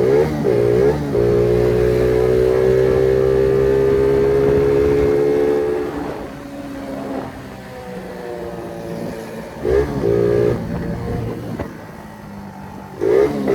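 Phoenix 50cc moped engine revving hard: a quick rev at the start, then held high and steady for about five seconds before dropping back. It settles lower, with short blips of the throttle near ten seconds and again near the end.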